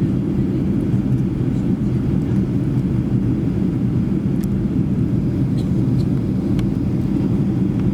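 Steady low rumble inside the cabin of a Boeing 737-800 in flight: its CFM56-7B engines and the air rushing past the fuselage, with a few faint clicks.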